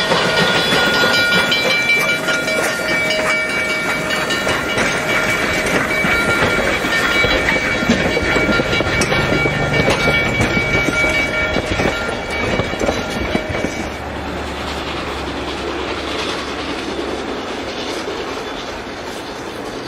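Narrow-gauge steam passenger train's cars rolling past close by, wheels clicking over rail joints, with a steady high-pitched squeal until about two-thirds of the way through. The sound then drops to a softer, more distant rumble of the train running.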